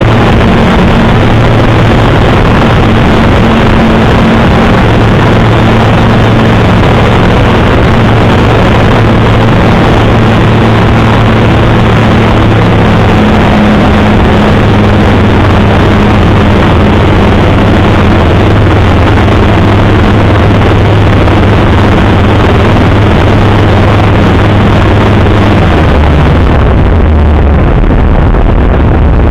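Light aircraft engine running loudly and steadily, heard with the noise of flight. Near the end the engine note drops lower and the higher hiss fades.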